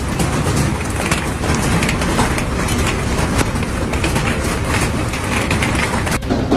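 Hailstones pounding down, a dense, continuous clatter of many ice impacts on hard surfaces. It breaks off briefly about six seconds in.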